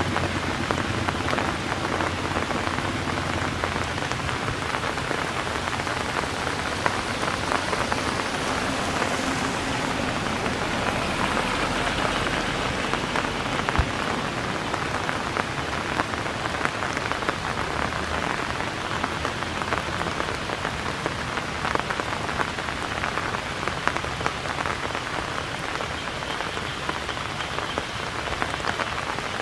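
Steady rain falling, a dense even hiss of many small drop hits throughout.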